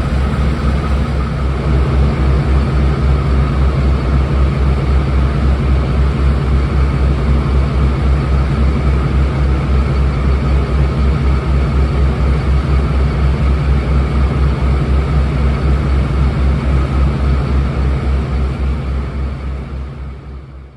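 British Rail Class 52 'Western' diesel-hydraulic locomotive D1015, its twin MTU V12 diesel engines running steadily with a deep, fast, even throb; the sound fades out near the end.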